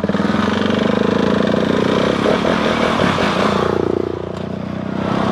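Motorcycle engine running under power while riding, its loudness easing off a little about four seconds in.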